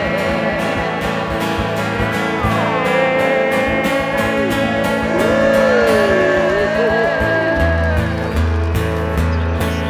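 A country band plays the closing instrumental bars of a song: strummed acoustic guitars over a steady beat, with a lead line gliding up and down in pitch. A low bass note comes in and holds near the end.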